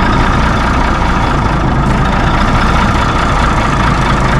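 Mack B-model truck engine idling steadily, loud and unchanging.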